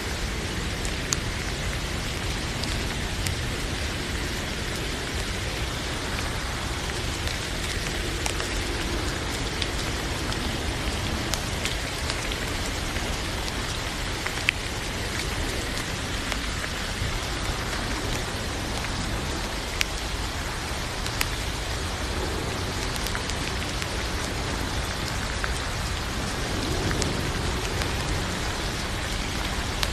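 Steady rain falling, with a few sharp individual drops landing close by.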